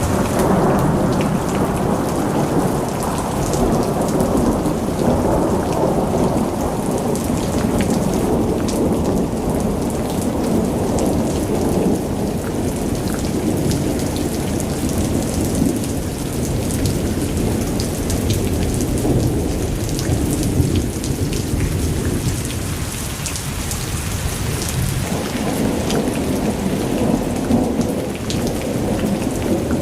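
Thunderstorm: continuous rolling thunder over steady heavy rain, the rumble easing slightly past the middle and building again near the end.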